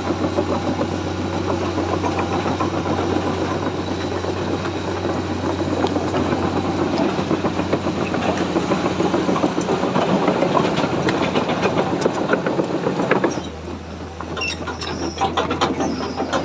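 Komatsu excavator's diesel engine running steadily with a rattling, working sound that drops abruptly in level about 13 seconds in, followed by a few sharp clicks.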